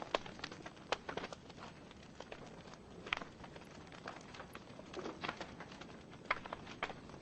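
Wood fire in a fireplace crackling: burning logs giving irregular sharp pops and snaps over a soft steady hiss of the flames.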